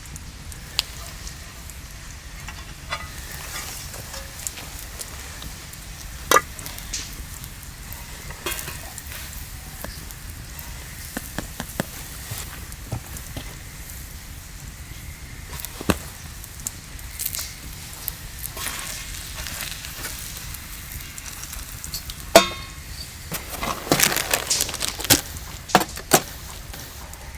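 Steady sizzling over a fire with scattered crackles and small clicks. There is a sharp knock about 22 seconds in and a busy run of taps and rustles near the end.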